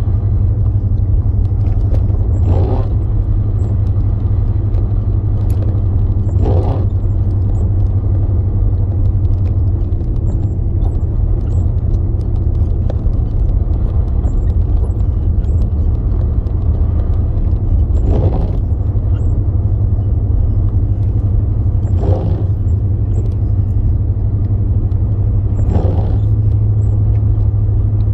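Road noise inside a moving car's cabin: a steady low rumble of engine and tyres. A short swish comes every four seconds or so, with a longer gap in the middle.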